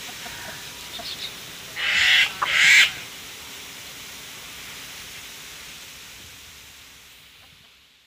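Two harsh bird calls in quick succession about two seconds in, with a few faint chirps just before, over a steady background hiss that fades out near the end.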